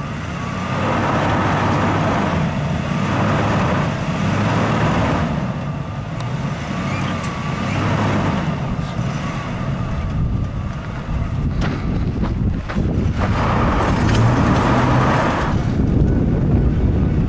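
Ford pickup truck engine revving in repeated surges while the truck, stuck in sand, tries to drive itself out.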